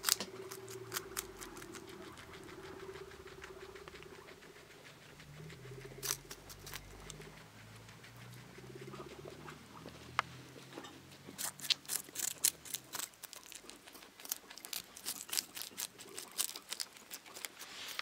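Guinea pigs chewing and crunching chicory leaves: a run of small, quick crisp clicks that grows denser and louder in the second half. A low steady hum runs under the first half.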